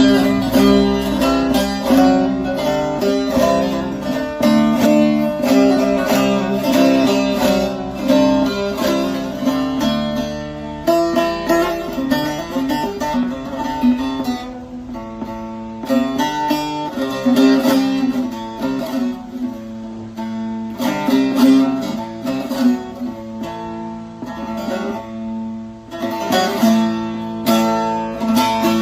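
Short-neck bağlama (saz) with an elm bowl and spruce top, played with a plectrum: a continuous melody of rapidly picked notes over ringing drone strings.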